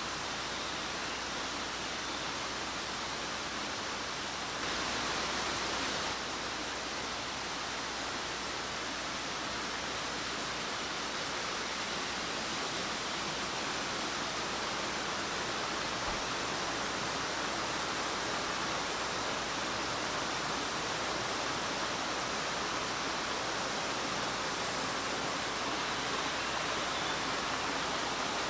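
Steady rushing of a waterfall, water pouring and splashing, briefly a little louder about five seconds in.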